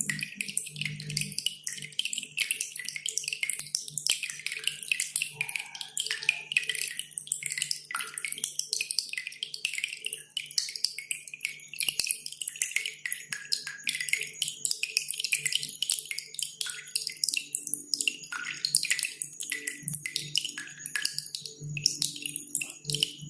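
Cililin songbird singing a dense, rapid run of high chirps and short whistled glides, hard and closely packed, over dripping water and a faint steady low hum.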